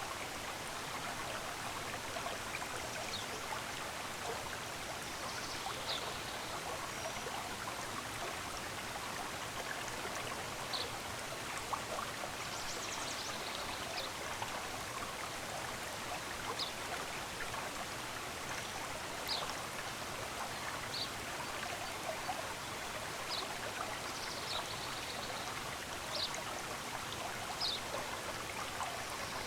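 Steady rush of a flowing stream, with short high bird chirps scattered through it.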